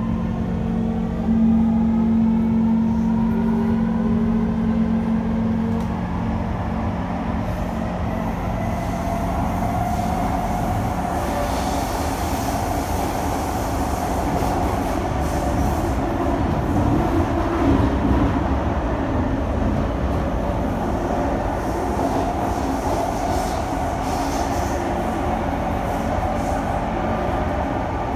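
Kawasaki C151 electric train heard from inside the car: its traction motors whine upward in pitch, several tones together, as it accelerates over the first several seconds, then give way to a steady rumble of wheels on rail as it runs at speed.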